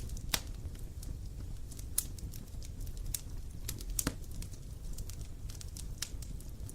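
Wood campfire crackling: a steady stream of small sharp ticks and snaps from the burning wood, with a few louder pops, over a low rumble of the flames.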